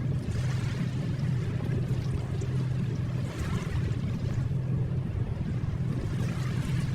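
Ocean waves ambience: a steady wash of surf with a low rumble underneath and gentle swells.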